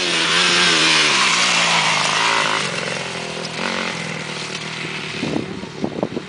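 Motocross motorcycle engine running loud, then dropping away about three seconds in, followed by a few sharp knocks near the end.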